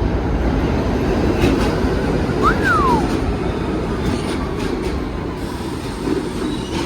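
New York City subway 3 train of R62 cars pulling into the station: a loud, steady rumble of wheels on rail, with a few sharp clicks and a brief falling squeal about two and a half seconds in.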